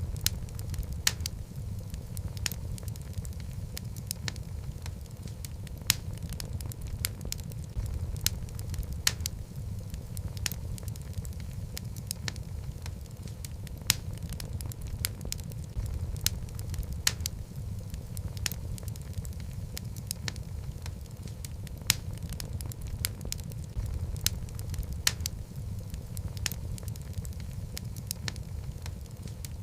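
Wood logs burning in a fireplace: a steady low rumble of flame with frequent irregular crackles and sharp pops, a few of them much louder than the rest.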